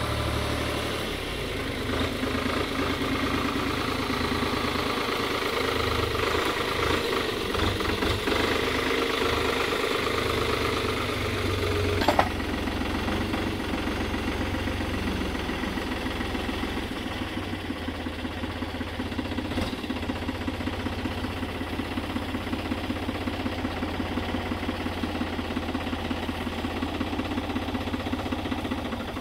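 An engine running steadily near idle, with a fine even pulse and some drift in pitch in the first half. There is a single sharp click about twelve seconds in.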